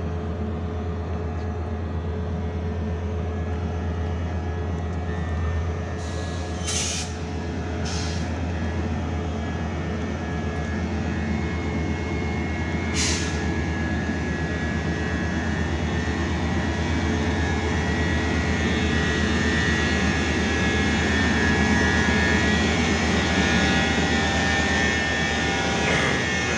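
Metrolink diesel locomotive and commuter train standing at the platform, running with a steady low drone and hum that grows a little louder in the second half. Three short hisses cut in, two close together and one a few seconds later.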